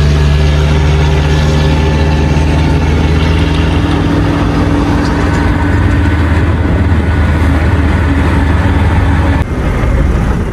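Very loud off-road 4x4 engine idling steadily close by, with a sudden dip in level near the end.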